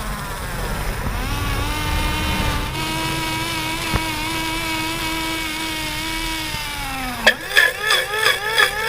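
A small motor runs with a steady whine, climbing in pitch a little over a second in, holding, then winding down about seven seconds in. Right after it stops, a sharp click is followed by quick, repeated chirping sounds, about three a second.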